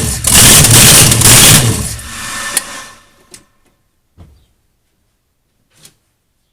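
Twin-turbo V8 in an IROC Camaro running very loud in pulsing surges, then dying away to silence about two seconds in. A few faint clicks follow.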